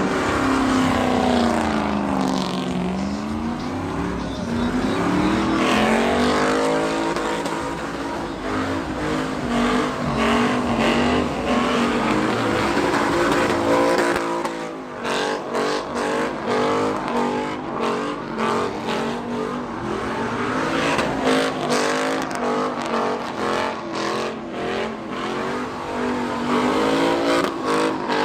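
Truck engine revving hard, its pitch swinging down and back up for the first half, then turning into rapid, choppy revs from about halfway through.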